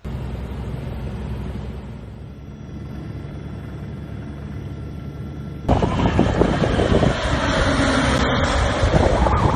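Steady engine rumble. About two-thirds of the way in it cuts to a louder, rougher rushing noise.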